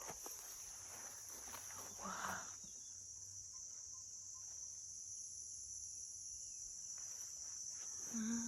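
Steady high-pitched chorus of rainforest insects, a continuous shrill hum. A brief faint voice-like sound comes about two seconds in.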